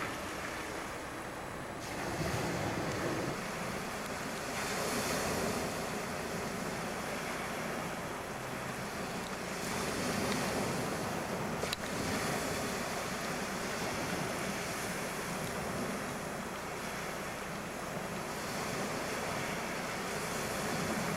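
A rushing wash of wind and water, loudness swelling and ebbing every few seconds, with one sharp click about twelve seconds in.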